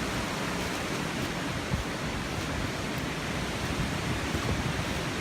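Hurricane wind and rain: a steady rushing noise with an uneven, gusty rumble in the low end.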